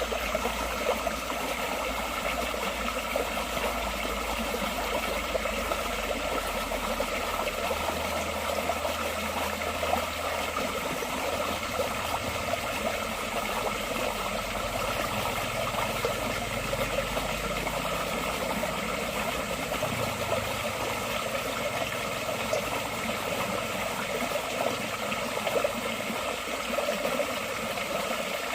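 Forest stream water flowing steadily, a constant even babble.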